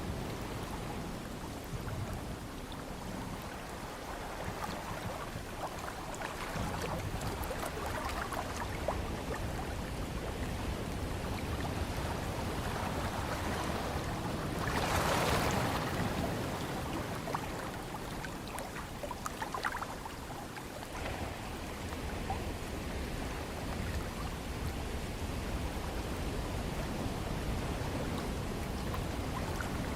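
Ocean surf: a steady wash of waves with a low rumble, one louder wave swelling and breaking about halfway through.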